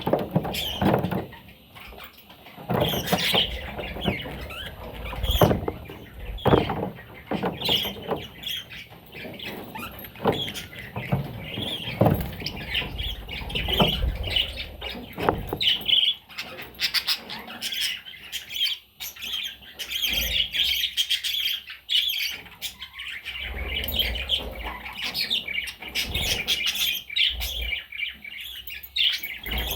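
Pet budgerigars chirping and chattering continuously, with scattered short squawks and occasional knocks.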